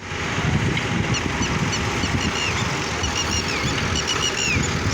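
Diesel engine of heavy machinery running steadily with a low rumble. Many short high-pitched notes come over it, several falling in pitch.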